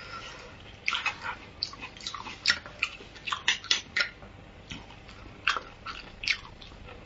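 Close-up wet chewing of soft, fatty beef bone marrow: an irregular run of short smacking clicks from the mouth.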